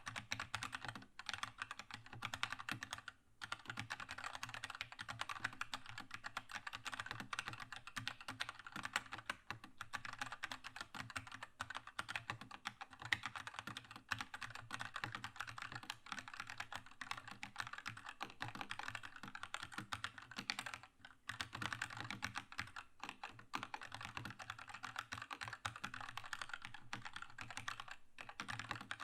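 Fast continuous typing on a Keychron K2 mechanical keyboard with linear Red switches: a dense patter of keystrokes, pausing briefly a few times.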